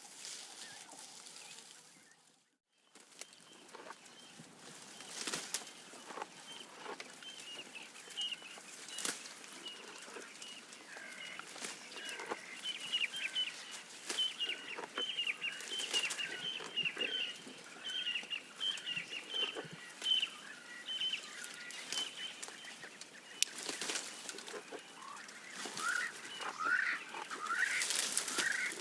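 Birds calling repeatedly: a rapid string of short high calls through the middle and rising calls near the end, over scattered crunching and rustling clicks. The sound drops out briefly near the start.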